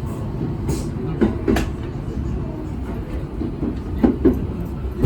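Train running on the rails: a steady low rumble with two pairs of quick wheel clacks over rail joints, one pair about a second in and another near the end.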